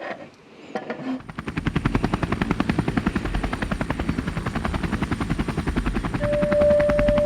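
Motorcycle engine starting about a second in and running with a rapid, even pulsing beat and a deep rumble.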